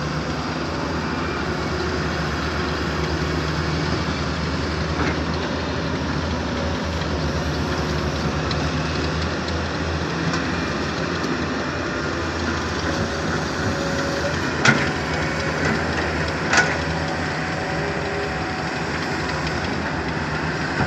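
Excavator's diesel engine running steadily, with a few sharp knocks about two-thirds of the way through.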